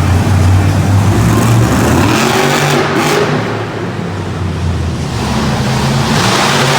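Monster truck engines running hard and revving, the pitch rising and falling as the trucks race. The sound eases off around the middle and builds again near the end.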